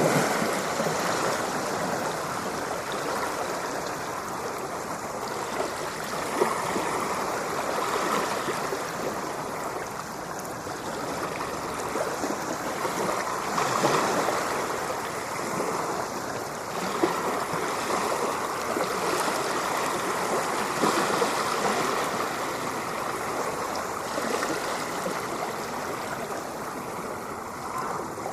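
Ocean waves washing in and receding as continuous surf, the rush swelling and easing every few seconds with the odd brief splash.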